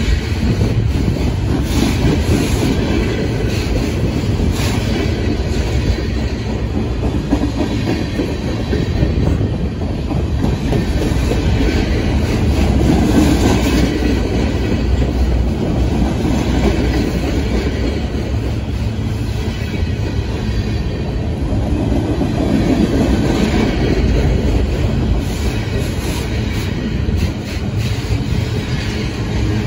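Freight train of flatcars loaded with military vehicles rolling past close by: a loud, steady rumble of steel wheels on the rails, with scattered clicks through it.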